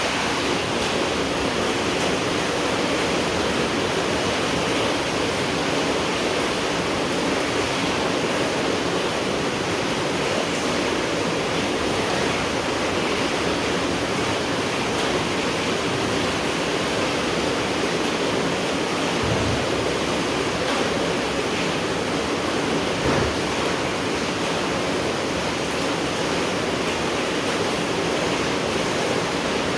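Steady night rain falling, an even hiss with two soft low thumps about two-thirds of the way through.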